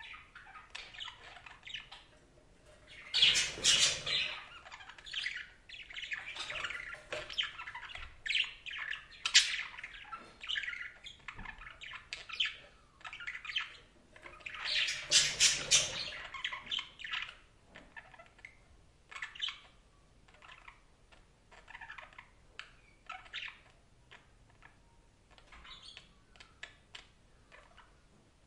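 Budgerigar chatter: quick chirps and warbles with harsh squawks, loudest in two dense bouts about three seconds in and again about fifteen seconds in, then thinning to sparser, quieter chirps.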